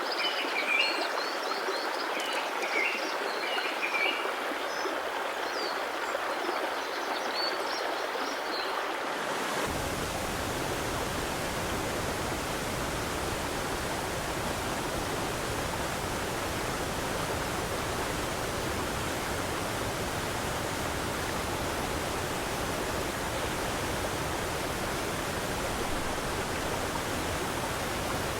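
Running water with small birds chirping over it. About a third of the way in, the sound cuts abruptly to a steady, even rushing noise that spans from deep to very high, like a waterfall.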